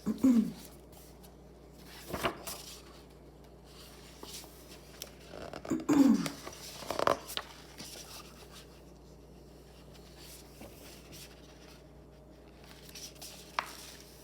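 Paper pages of a picture book being handled and turned, rustling and brushing in several short bursts.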